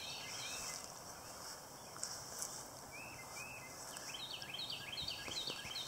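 Faint outdoor ambience with a small bird chirping: a couple of short calls about halfway through, then a quick run of repeated falling chirps near the end, over a steady high hiss.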